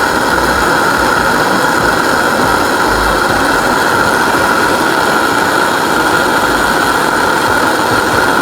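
Blowtorch burning with a steady, loud hiss, heating a rust-seized spark plug to loosen it.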